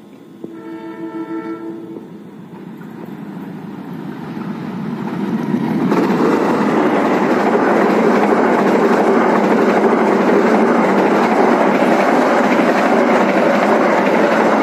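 Locomotive horn of an approaching passenger train: one blast of about a second and a half. Then the rumble of the train grows over a few seconds into the loud, steady rush and clatter of the locomotive and coaches passing close by at speed.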